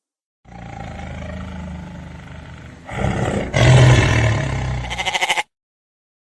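An animal call lasting about five seconds, low and pitched, growing louder about three seconds in and breaking into a fast pulsing near the end before cutting off suddenly.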